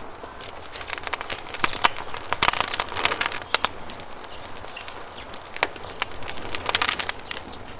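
Wood fire crackling: irregular sharp snaps and pops, with thicker runs of crackle about two and a half seconds in and again near the end.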